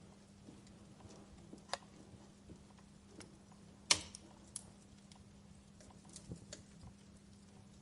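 Wood fire crackling: irregular sharp pops and snaps of burning logs, the loudest snap about four seconds in, over a faint steady hum.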